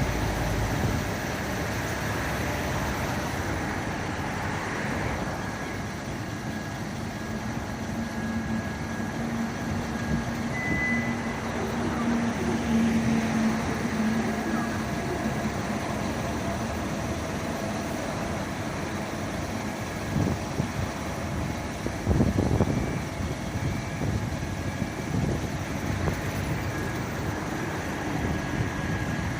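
Motor vehicle engines running with steady traffic noise. A low, even hum holds for several seconds partway through, and there are a few short knocks around twenty seconds in.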